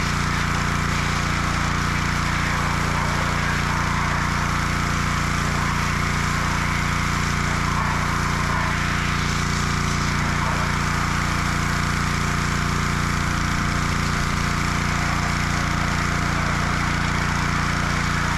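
A motor running steadily, its pitch and level unchanging throughout.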